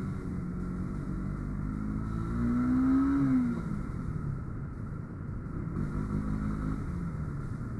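Motorcycle engine running during a ride, with a steady drone of engine notes. About three seconds in it briefly gets louder and its pitch rises and then falls.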